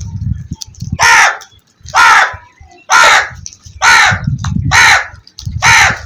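Crow cawing loudly, six harsh caws about a second apart, starting about a second in.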